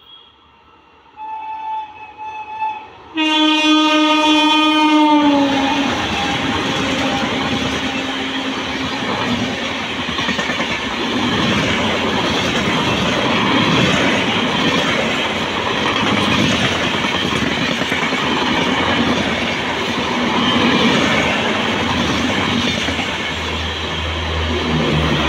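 Passenger train's horn, two short toots and then one long blast about three seconds in, its pitch dropping near the end as the locomotive passes. Then the loud, steady rush and clickety-clack of LHB coaches running through the station at high speed.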